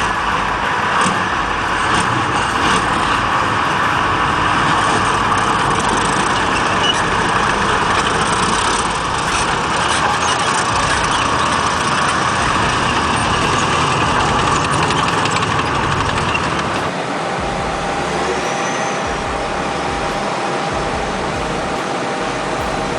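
A T-54 tank's V12 diesel engine rumbling loud and steady. About 17 seconds in the sound drops to a quieter, different machine noise.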